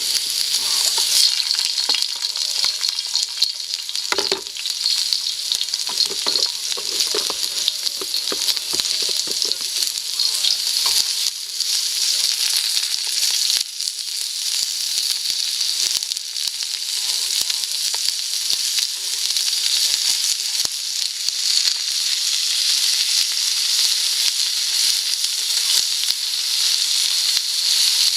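Food frying with a steady sizzle in a de Buyer crepe pan over a campfire. In the first ten seconds or so there is a cluster of short knocks and clicks from a utensil stirring.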